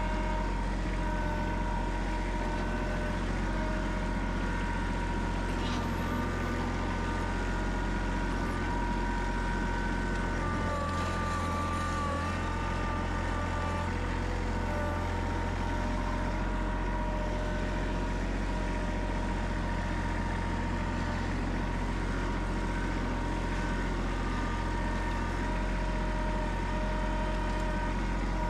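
Snowplow truck's engine running steadily, with a low rumble and a steady whine over it.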